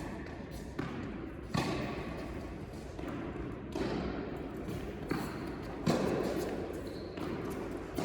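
Tennis ball being hit by rackets and bouncing on an indoor court, about eight sharp impacts coming in pairs roughly every two seconds, each one echoing in the hall.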